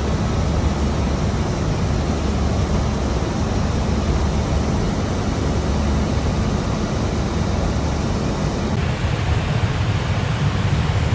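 Steady rushing hiss of air noise on an Airbus A321 flight deck in flight, with a low rumble beneath it. The hiss brightens slightly about nine seconds in.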